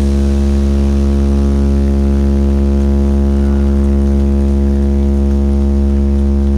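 A deep, steady bass drone with a stack of overtones, played loud through a large sound system and held without any change or beat.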